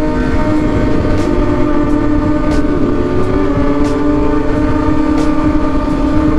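Motorcycle engine running at a steady cruise, its pitch drifting slightly, under heavy wind rumble on the rider's mic. Faint ticks sound about every two-thirds of a second.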